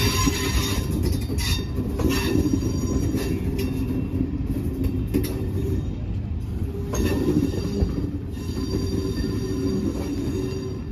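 Train of passenger coaches rolling slowly past, wheels squealing against the rails, with a low rumble and sharp clicks as the wheels pass over rail joints. It eases slightly near the end as the last coach moves away.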